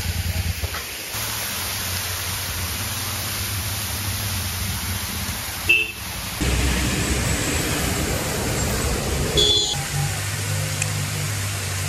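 Royal Enfield Interceptor 650's parallel-twin engine running on the move, under steady wind and road noise; the engine note shifts about six and a half seconds in and again near ten seconds. Two short high-pitched beeps sound about six seconds in and again about three and a half seconds later.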